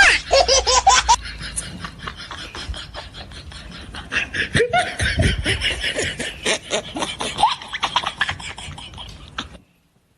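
Laughing in a long run of short, rapid bursts, cutting off shortly before the end.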